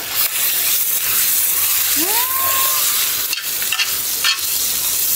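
Pork and kimchi frying in oil in a pan, sizzling steadily as they are stirred, with a few short clicks around the middle.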